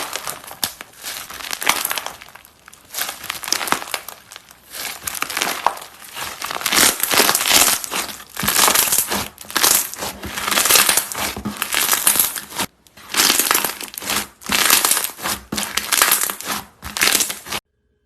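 Crunchy slime squeezed and pressed by hand, crackling and crunching in uneven bursts that stop suddenly near the end.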